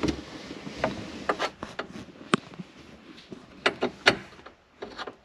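Scattered clicks, knocks and rubbing from hands working at screws in a Suzuki Carry's plastic dashboard trim. The loudest clicks come a little past two seconds and about four seconds in.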